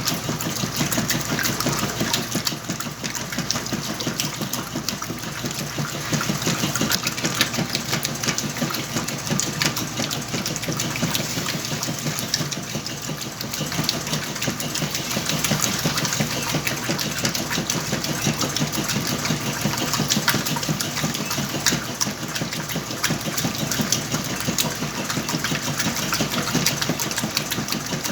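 Whirlpool washing machine running its wash cycle with a load of blankets: a steady motor hum under water churning and a dense, continuous rattle of small clicks.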